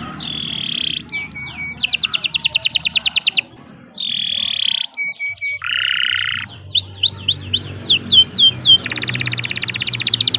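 Domestic canary singing a long, varied song: fast rattling trills, held buzzy notes, and runs of quick down-swooping whistles, with a fast trill starting again near the end.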